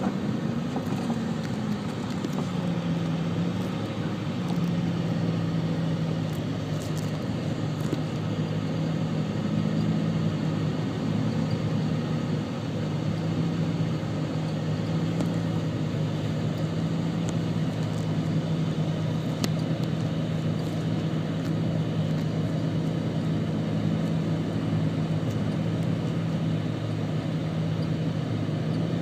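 Car engine idling with a steady drone, heard from inside the car's cabin.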